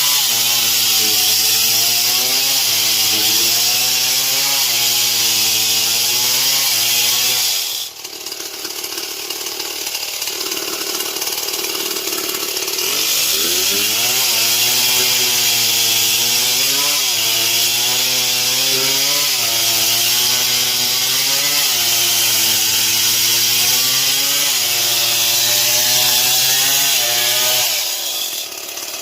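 Stihl MS 070 two-stroke chainsaw cutting wood at high revs, its pitch sagging and recovering about once a second as the chain bites into the wood. About eight seconds in the engine drops off and runs lower for a few seconds, then revs back up and cuts again with the same rise and fall, dropping away again near the end.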